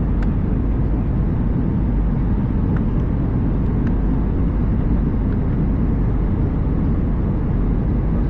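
Steady low rumble inside an Airbus A320 cabin: the airliner's engines and the rush of air or rolling wheels, holding an even level throughout.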